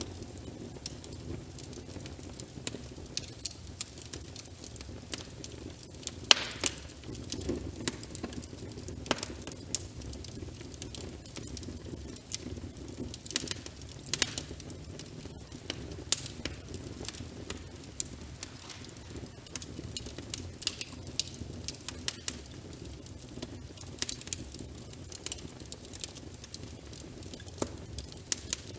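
Wood fire crackling and popping irregularly, sharp snaps over a steady low rumble of burning and rain.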